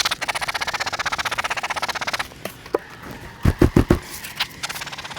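A hive feeder being shaken hard to dislodge clinging bees, giving a fast rattle of about fourteen clatters a second that stops about two seconds in. A few heavy thumps follow about a second later.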